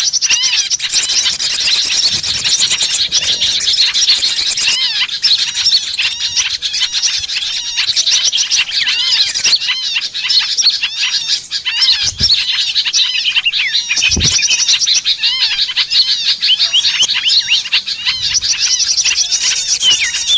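A dense chorus of many small songbirds chirping and trilling rapidly over one another, the lure-call sound used to draw small birds in. Two brief low thumps come about twelve and fourteen seconds in.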